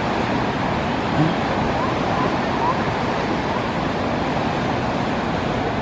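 Ocean surf breaking against the rocks, a steady even rush of water.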